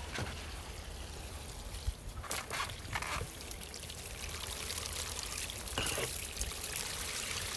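Water spraying and trickling down vinyl siding, a steady hiss with a few short louder moments.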